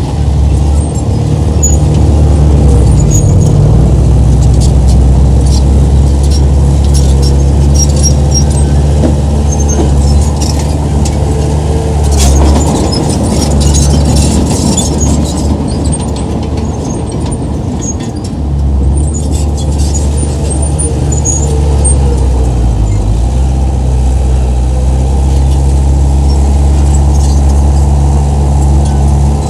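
Komatsu bulldozer's diesel engine running under load, its note dipping and recovering in the middle and again near the end, with high squeaks and clicks from the steel tracks.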